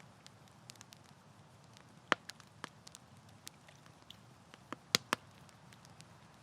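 Campfire burning, a soft steady rustle of flames with scattered crackles and sharp pops from the burning wood. The loudest pops come about two seconds in and as a pair near five seconds.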